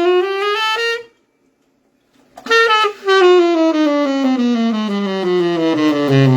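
Saxophone playing a chromatic scale in half steps: the top of a rising run ends about a second in, and after a short pause a long descending run steps down to a low note near the end.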